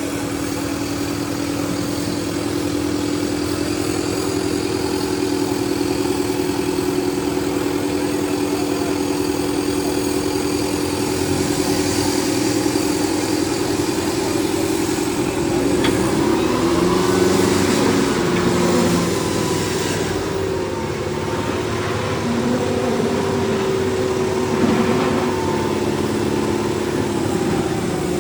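Tractor diesel engines running hard against each other in a tug-of-war: a steady drone for the first half, then the pitch dips and wavers from about halfway on as the engines are loaded.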